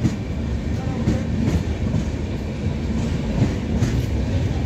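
Indian Railways passenger coaches rolling past, with a steady rumble of wheels on rail and irregular clacks as the wheels cross rail joints.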